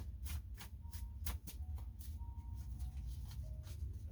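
A tarot deck being shuffled by hand: a quick run of soft card ticks, about three or four a second in the first half, thinning out later, over a steady low hum.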